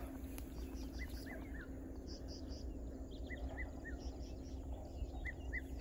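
A bird calling: short high notes in groups of two or three, repeated every couple of seconds, over a low steady background noise.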